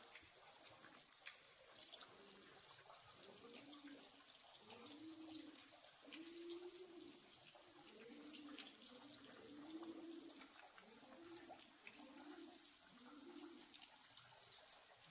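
Faint pigeon cooing: a run of low, rolling coos about once a second, starting a few seconds in. Under it runs a faint trickle of water with small drips.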